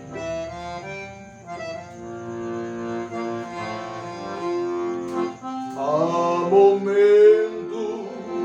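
Instrumental passage of a gospel song: accordion playing a slow melody of long held notes, with louder sliding notes about six seconds in.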